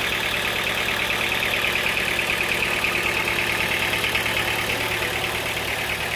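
Sawmill machinery running steadily: a continuous mechanical drone with a fast, even pulsing and a low hum underneath.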